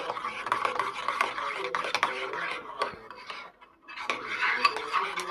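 Cutlery and dishes clinking and clattering with many quick sharp clicks, like stirring or handling tableware. The clatter stops briefly a little past halfway, then resumes.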